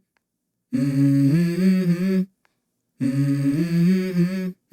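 Background music: two short wordless vocal phrases of held notes that step up and down in pitch, separated by abrupt silences.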